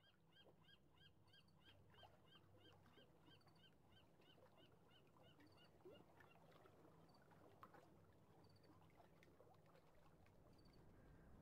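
Faint waterside ambience: a bird chirping in a quick, even run of about three or four calls a second that stops about six seconds in, over a low steady rumble, with scattered small high ticks after.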